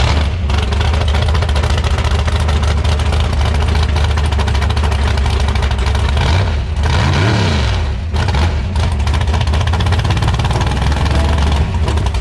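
Car engine running loud and steady at idle, with a brief rev that rises and falls about seven seconds in.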